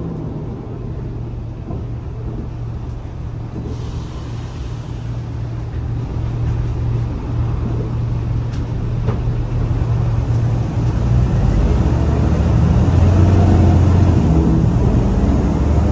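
Scania L94UA city bus engine running with a steady low drone, growing louder from about two-thirds of the way through as it comes under more load.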